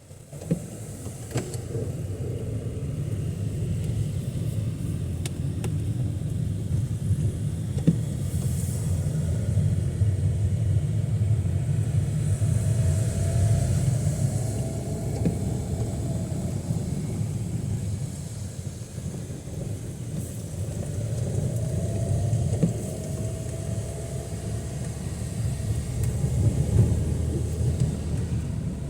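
Low, steady rumble of road traffic, swelling and easing as vehicles pass.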